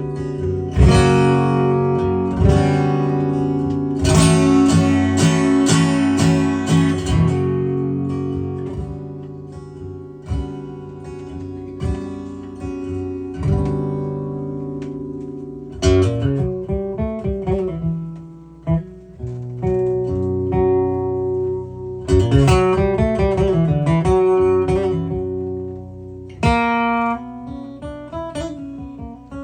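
Acoustic guitar playing an instrumental introduction, strummed and picked chords with some sliding notes partway through.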